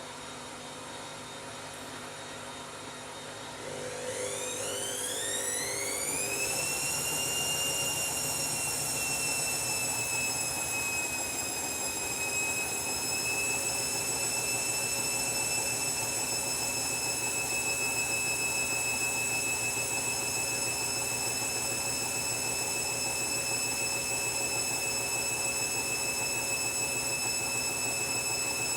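Washing machine going into a spin: about four seconds in, the motor's whine rises in pitch as the drum speeds up, then holds steady at high spin speed.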